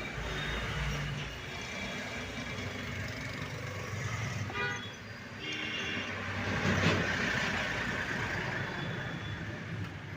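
Road traffic running steadily, with a few short horn toots.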